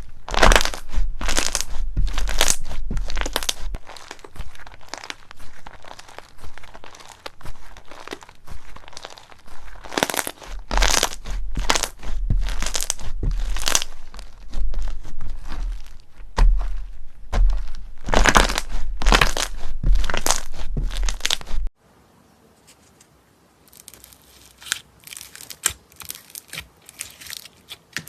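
Slime being pressed and worked by hand, with dense, repeated crackling and popping. About 22 seconds in it cuts to a much quieter clip with sparser, crisp clicks.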